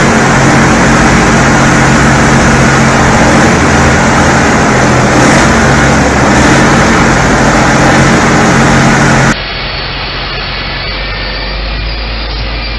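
A heavy machine's engine running loud and steady under load. About nine seconds in, it cuts abruptly to a quieter, different engine sound.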